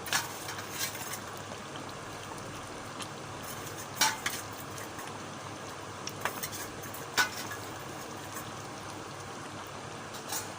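Chicken curry sizzling steadily in the pan while it is stirred, a spoon knocking sharply against the pan several times, loudest about 4 and 7 seconds in.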